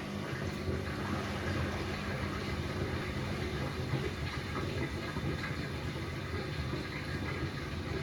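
Bosch Classixx 6 washing machine pumping out its rinse water before the intermediate spin: a steady low rumble from the drain pump and rushing water.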